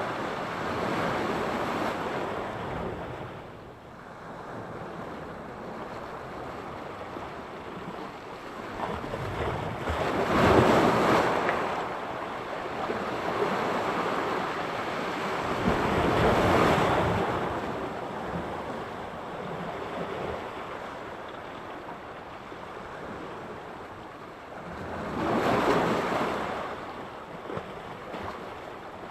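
Sea surf breaking on the shore: a steady wash of waves with several louder breakers that swell and fade, the strongest about a third of the way in, with some wind on the microphone.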